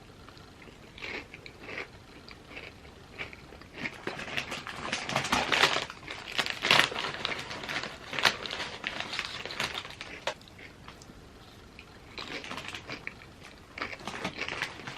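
Chips being bitten and chewed: crisp crunching with many sharp crackles, densest and loudest through the middle stretch and sparser at the start and end.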